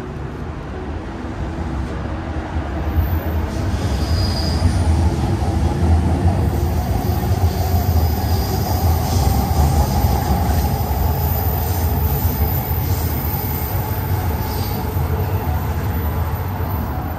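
A train passing: a low rumble that builds over the first few seconds, holds, and eases off near the end, with a few brief high squeals.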